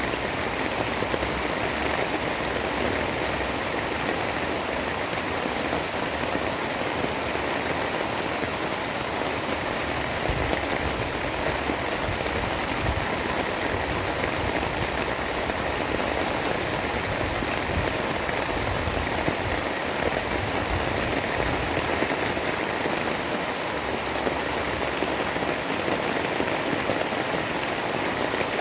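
Steady rain, an even wash of noise with no breaks or changes.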